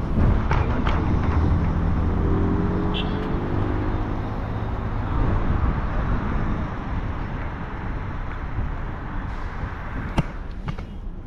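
Road traffic in the rain: car engines running and tyre noise on a wet road, with one engine rising in pitch a couple of seconds in. There is a sharp click near the end.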